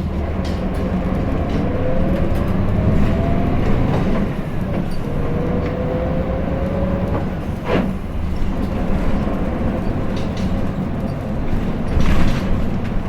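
Hino Blue Ribbon City (KL-HU2PMEA) city bus heard from inside the cabin while driving: a steady low rumble of its diesel engine and road noise, with a whine that rises in pitch twice. A single sharp knock comes about eight seconds in.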